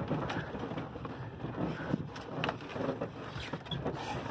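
Pickup truck in four-wheel drive moving slowly along a rough dirt trail: a low engine rumble with frequent short knocks and rattles as it goes over bumps.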